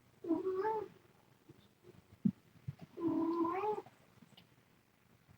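A cat meowing twice, two drawn-out calls a couple of seconds apart, with a short knock between them.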